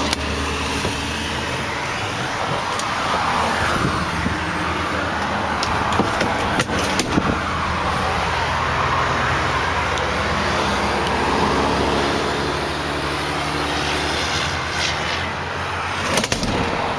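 Steady highway traffic noise, with vehicles swelling past every few seconds, and a few short clicks and knocks about six to seven seconds in and again near the end.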